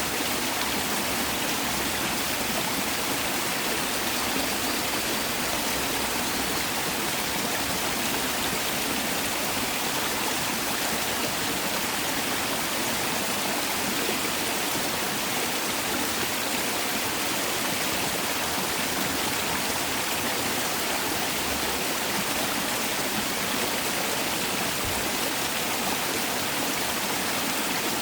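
Mountain valley stream rushing over rocks, a steady, unbroken flow of water.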